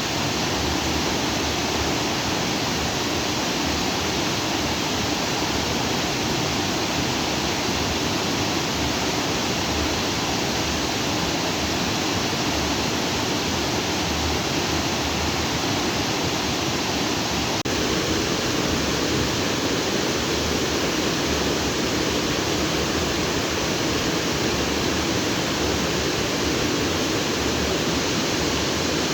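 A lake-outflow stream rushing freely over and between rocks, a steady, continuous water sound. Its tone shifts slightly a little over halfway through.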